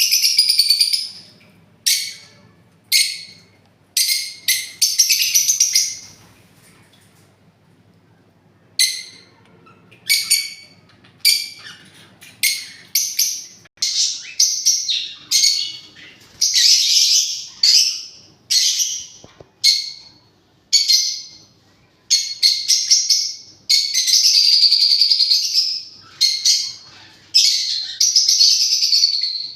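Parrots calling: many short, high-pitched calls, one after another in quick runs, with a pause of a couple of seconds about a quarter of the way in.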